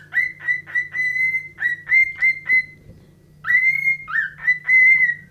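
A cockatiel whistling a tune: a quick run of short notes, each sliding up into a steady held pitch, with a brief pause about three seconds in.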